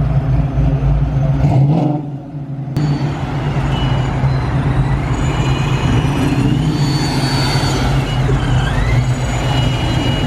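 Loud car engine running at a car meet, with a high whine that rises and falls as the revs change; there is a brief drop and an abrupt cut about three seconds in.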